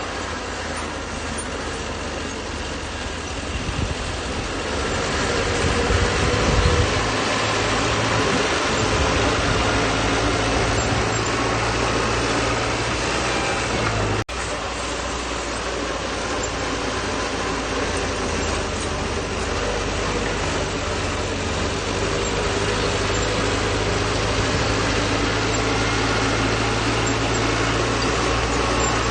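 Bulldozer's diesel engine running steadily while working, getting louder about five seconds in as it takes up load. The sound cuts out for an instant about halfway through, then carries on.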